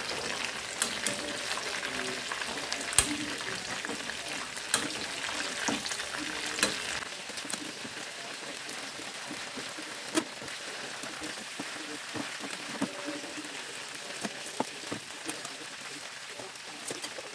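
Batter-coated chicken pieces frying in oil in a nonstick pan, a steady sizzle, in the first fry of the chicken. Sharp clicks of metal tongs knock against the pan as the pieces are turned, and the sizzle eases slightly about seven seconds in.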